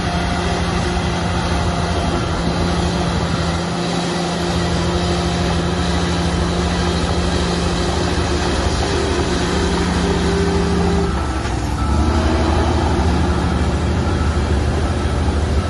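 Shantui bulldozer's diesel engine running steadily under work, its note shifting about eleven seconds in.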